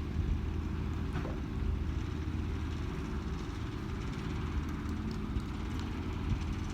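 Garbage truck's diesel engine running steadily with a low, even drone.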